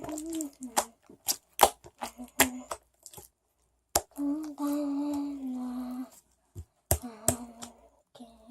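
Slime being squeezed and poked, giving sharp clicking pops at irregular moments, while a person hums a few held notes, longest about halfway through.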